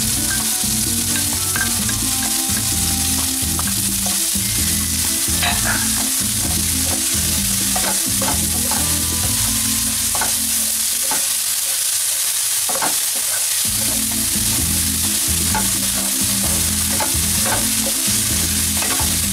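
Sliced spring onions and onion frying in hot oil with a steady sizzle, while a wooden spatula stirs them and scrapes and taps against the pan. A low rumble runs underneath and drops out briefly past the middle.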